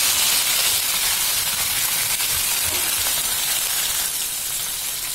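Green beans sizzling in hot oil in a wok, just added to the stir-fry, a steady hiss that eases slightly near the end.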